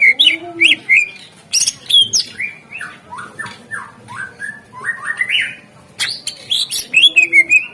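Green leafbird (cucak ijo) singing a rapid, varied song of chirps and whistles. It packs in quick notes falling from high to middle pitch, a run of short rising sweeps in the middle, and sharp clicks, with a low rising-and-falling note near the start and again near the end.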